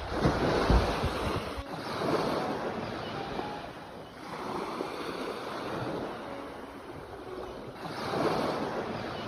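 Sea waves breaking and washing on the shore, the surf swelling and ebbing every few seconds, with some wind buffeting the microphone.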